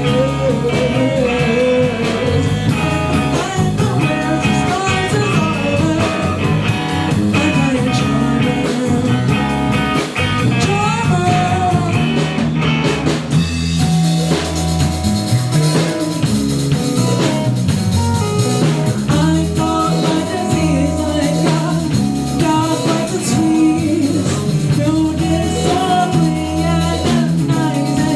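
Live rock band playing an instrumental passage: electric guitar, bass and drum kit, with a gliding lead guitar line.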